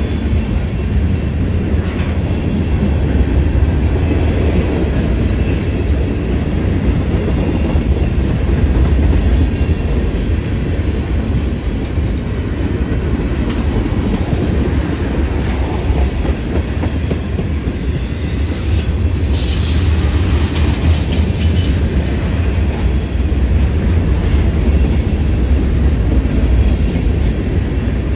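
A Union Pacific mixed freight train rolling past close by: a steady loud rumble of wheels on rail with clatter from the cars. A brief high-pitched squeal or hiss rises about two-thirds of the way through.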